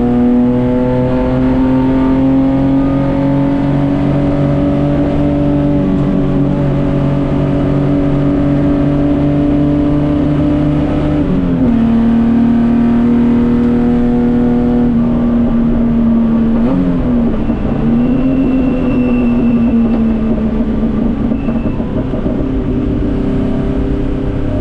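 Datsun 240K Group C race car's straight-six engine running hard under load, its note climbing slowly, then dropping sharply about halfway through as the driver changes gear. About two-thirds of the way in the note dips and comes back up in a quick lift-and-shift, then it runs steadily again.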